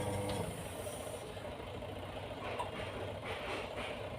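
Washing machine's electric motor humming steadily, then cutting off about half a second in, leaving faint handling noise. The motor runs but the belt does not turn the drive, a sign of a worn-out fan belt.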